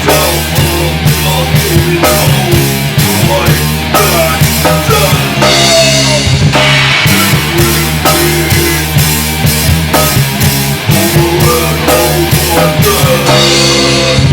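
Loud heavy rock music with distorted guitars, bass and a driving drum kit, an instrumental stretch with no vocals.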